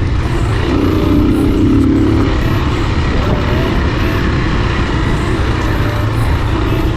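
A Spark 250 cc pit bike's engine running steadily while riding, with a dense rushing noise over it; the engine note swells for about a second and a half shortly after the start and again briefly near the end.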